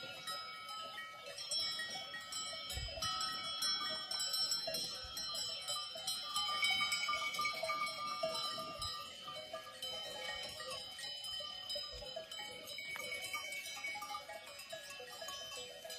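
Many neck bells on a grazing goat herd clanking and ringing together at different pitches, with no break.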